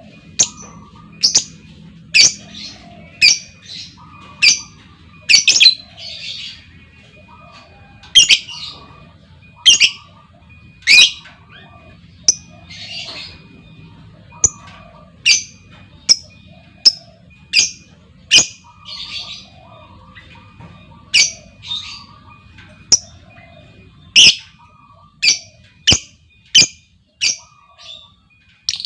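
Female lovebird calling: short, sharp, shrill squawks repeated about once a second, over a faint low hum.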